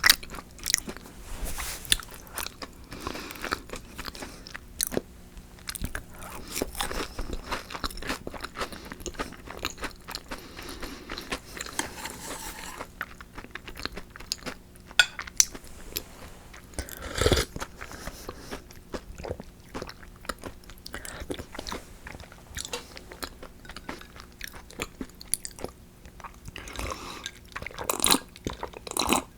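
Close-miked eating: irregular crunching and chewing of crispy fried food, with a louder bite about seventeen seconds in and a few more near the end.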